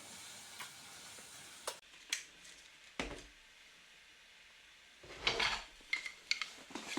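Faint kitchen clatter: a few separate knocks and clinks of dishes and utensils, the loudest cluster about five seconds in.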